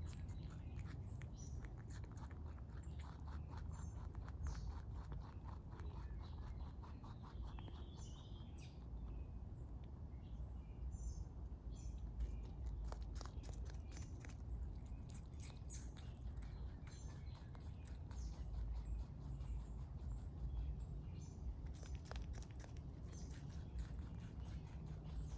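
A rabbit chewing close to the microphone: rapid, crunchy little bites running on and on, loud for so small an animal. Small birds chirp now and then behind it.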